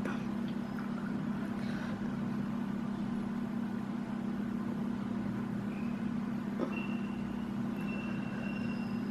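A steady low hum held at one pitch, with faint high whistling tones in the second half.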